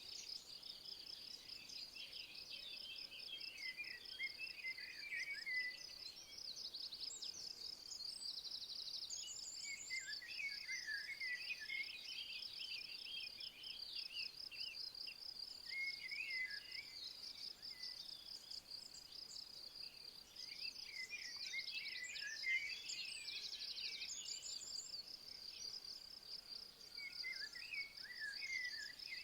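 An insect chorus keeps up a steady, fast-pulsing high trill. Over it a songbird sings short twittering phrases every few seconds, with now and then a higher chirp.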